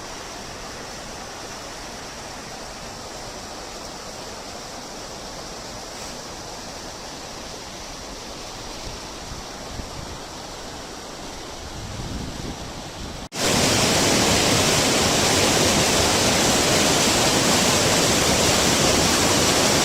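Mountain river rushing over a stony bed, a steady hiss of water. About two-thirds of the way through it cuts suddenly to a much louder, closer rush of the stream.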